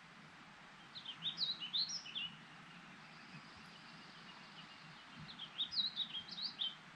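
A songbird singing two short, quick phrases of chirping notes, one about a second in and another about five seconds in, over a steady outdoor background rush.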